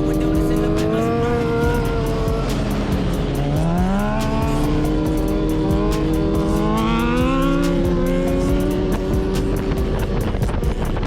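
Sport-bike engine running under way, its pitch dropping and then climbing as the throttle is rolled off and opened again, with steady wind noise over it.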